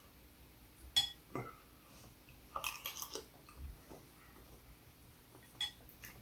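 A spoon clinking against a bowl, sharply about a second in and again near the end, between quiet sounds of eating soup.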